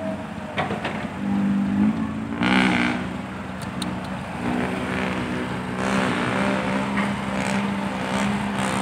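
Dump truck's diesel engine running hard through a loud exhaust, a steady droning note that surges a little about two and a half seconds in and again near the six-second mark.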